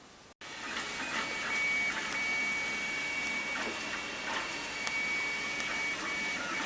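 Printrbot Play 3D printer printing: its stepper motors whine with a steady high tone that breaks off now and then over a shifting mechanical hum. It starts abruptly about half a second in.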